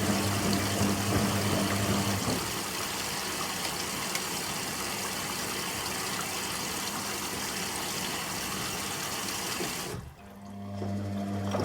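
Candy Aquamatic 100F washing machine in its final rinse: water rushing through the machine with a steady hiss. A low machine hum, from a pump or motor, stops about two seconds in and starts again near the end, after a brief lull.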